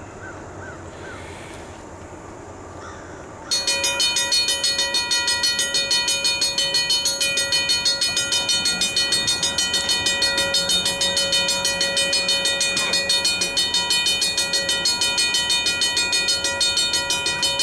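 Railroad grade crossing warning bell starts suddenly about three and a half seconds in and rings steadily with a fast, even pulse: the crossing has been activated by the approaching train.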